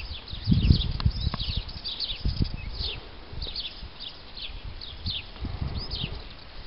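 Small birds calling outdoors in quick, short falling chirps, several a second, over uneven low thumps and rumble.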